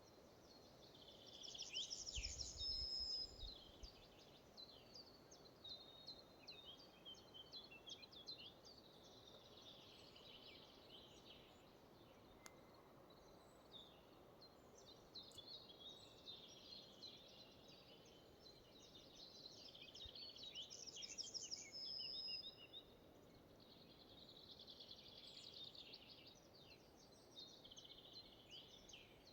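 Faint songbirds singing in a forest, several birds overlapping in short phrases. One bird repeats the same trilled song with a high ending note twice, near the start and about two-thirds of the way through, over a soft steady background hiss.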